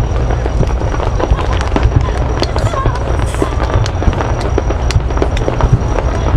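Fireworks display: many aerial shells bursting in quick succession, a dense run of sharp bangs and crackles over a continuous low rumble of booms.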